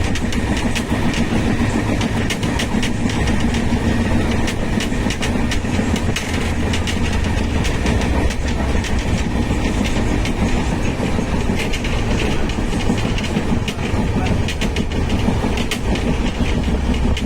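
A train running past, its wheels clattering over the rails in a continuous stream of sharp clicks.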